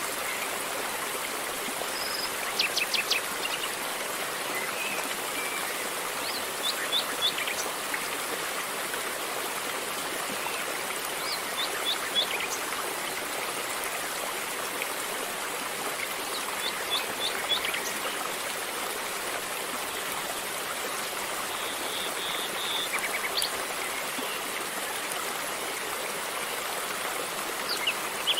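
River water flowing steadily, with a bird giving short runs of quick high chirps about every five seconds.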